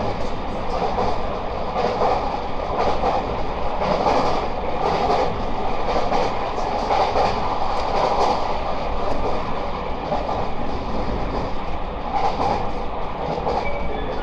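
Running sound heard inside the passenger cabin of a JR West 223 series 2500 subseries electric train travelling at speed: a steady, loud rumble of wheels on rail.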